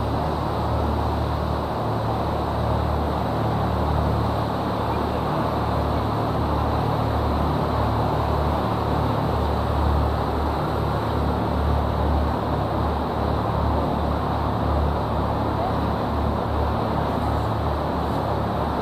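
Tour boat on the river running steadily, a continuous noise with an uneven low rumble underneath.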